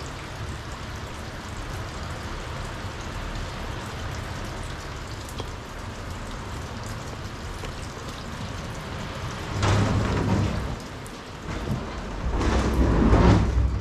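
Heavy typhoon rain falling steadily, with two louder surges of rushing noise and low rumble near the end.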